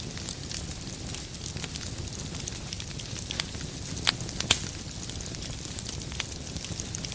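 Wood fire crackling steadily, with a dense patter of small crackles over a low rumble and a few sharper, louder pops about four seconds in.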